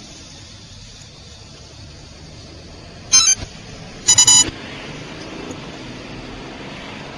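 Police car's electronic warning tone sounded in two short blasts: a brief one about three seconds in, then a louder, stuttering one about a second later, over the steady road noise of the moving patrol car.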